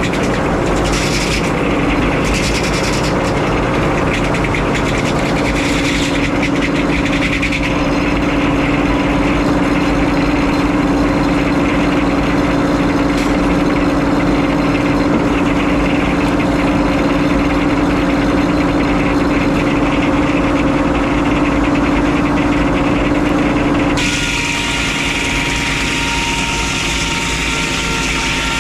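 Frick 01-C circular sawmill running steadily, its engine and spinning blade giving a steady hum. Near the end the sound changes abruptly to a higher whine, as the saw begins working through the log.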